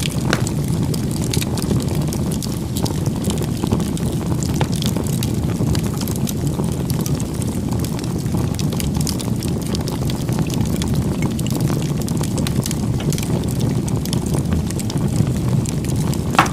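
Wood fire burning with a steady low rumble of flames and frequent small, sharp crackles and pops scattered throughout.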